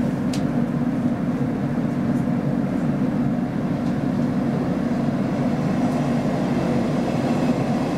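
Steady low hum inside the passenger cabin of a Roslagsbanan X10p electric train standing at a station platform.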